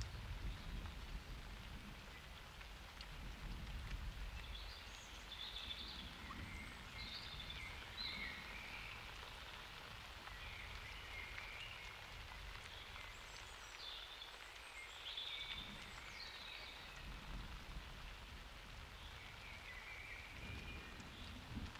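Steady light summer rain falling, with short high chirps dotted through it.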